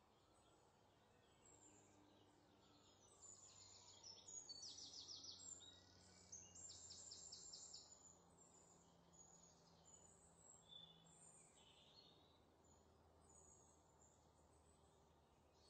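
Faint bird chirps and short trills over quiet background hum, loudest between about three and eight seconds in.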